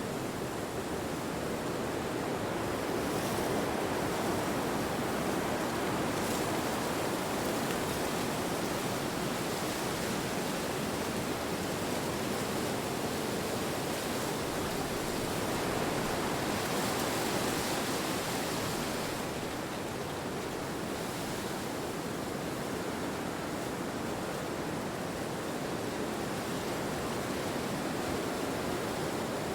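Wind rushing through forest trees: a steady wash of noise that swells and eases slowly, with a brighter, hissier gust about two thirds of the way through.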